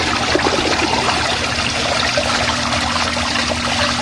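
Portable twin-tub washing machine running its wash cycle: the motor hums steadily under the continuous churning and swishing of water in the wash tub.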